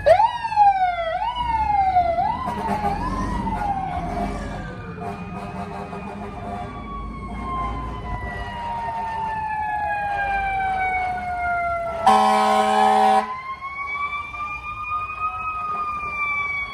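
Fire engine sirens: a few quick rising whoops, then a long wail winding slowly down in pitch. An air horn blasts for about a second near the twelve-second mark, and the wail then rises and falls again.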